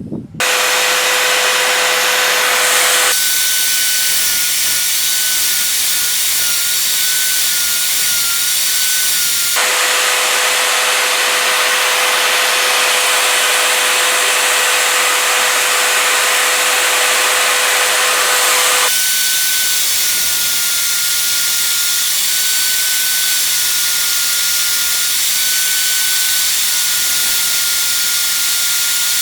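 A power tool grinding the steel axe head, with a steady motor whine over the hiss of abrasive on metal. The pitch of the whine jumps abruptly about 3, 10 and 19 seconds in, as the work switches between passes.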